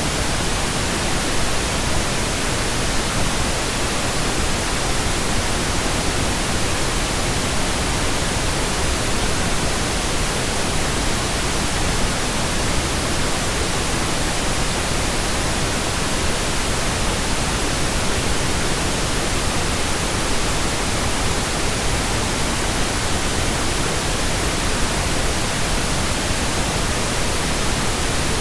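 Steady synthetic pink noise generated in Audacity: an even, unchanging hiss across the whole range.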